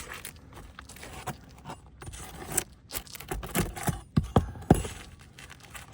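Asphalt roof shingles being pried up and scraped during nail removal: a run of scrapes and crackles, with a few sharp clicks or knocks between about three and a half and five seconds in.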